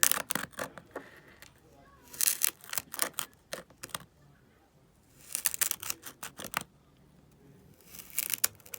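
Kinetic sand being worked, giving crisp crackling clicks in four spells of a second or so each, a couple of seconds apart.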